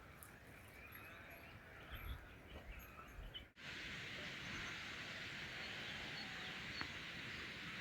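Faint outdoor birdsong, chirps and short calls, for the first few seconds. About halfway through it gives way abruptly to a steady rush of water that lasts to the end.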